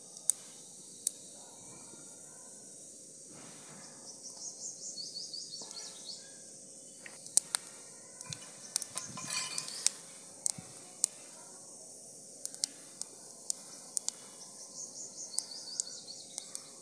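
Cumin seeds frying in hot oil in a wok for a tadka: a steady sizzle with sharp crackles and pops scattered throughout, thickest around the middle.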